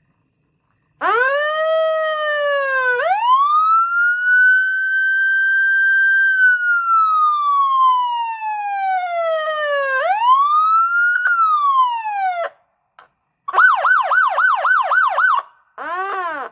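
Fire truck siren running through its tones: a slow wail rising and falling twice, then a fast yelp of about seven quick sweeps, and one more short sweep near the end. It starts suddenly about a second in and cuts out between patterns.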